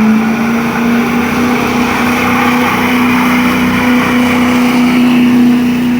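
Turbocharged truck engine running under steady load at a constant speed, giving a level droning hum over broad engine and road noise.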